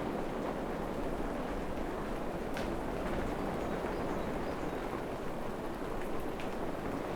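Steady rain falling in a forest, an even dense patter with a few sharper drip ticks standing out now and then.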